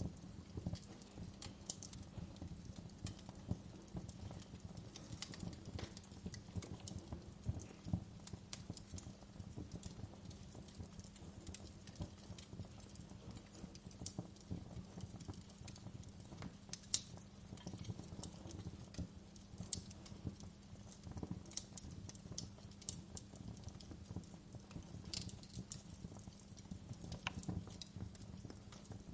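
Fire crackling: irregular small pops and snaps, one sharper pop about halfway through, over a low steady rumble.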